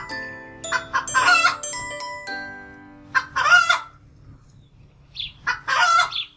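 Domestic chickens calling, three separate calls each under a second long, over a light plinking glockenspiel-like tune that fades out about halfway through.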